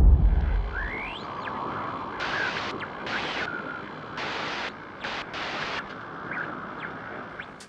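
The tail of a deep boom rumbling away in the first second, fading into a steady hiss. Several short, sharp-edged bursts of brighter hiss and a couple of quick rising whistles come through the hiss.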